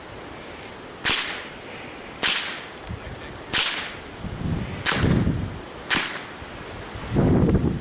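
Five .22 LR rifle shots, fired singly about a second apart, each a sharp crack. Near the end comes a stretch of loud low rustling or wind noise.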